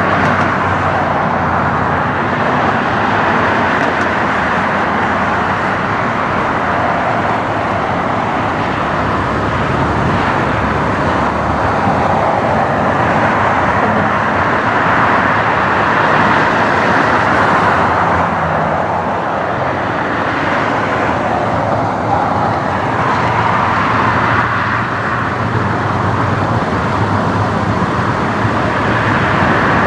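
Jet engines of an Air Canada Rouge Boeing 767-300ER airliner making a loud, continuous roar that swells and eases.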